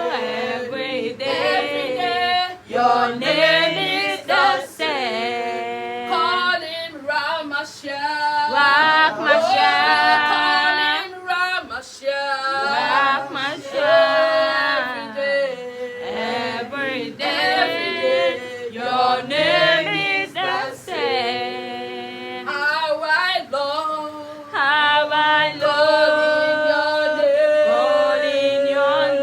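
Voices singing a Christian worship song, with long held notes near the end.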